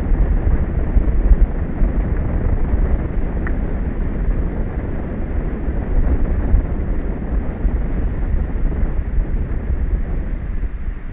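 Wind buffeting the microphone: a loud, steady low rumble that keeps rising and falling.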